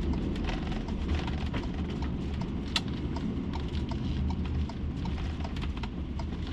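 Motorhome on the move, heard from inside the cab: a steady low road and engine rumble with a run of light clicks and rattles over it, one sharper click near the middle.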